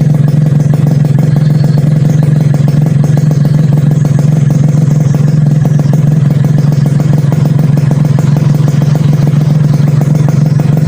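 Suzuki Satria two-stroke motorcycle's single-cylinder engine running steadily at a constant speed, with no revving.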